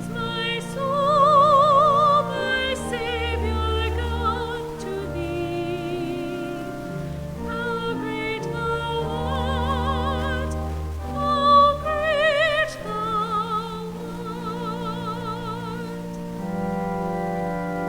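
A single singer with strong vibrato sings a slow, classical-style sacred piece over sustained instrumental accompaniment with low held bass notes.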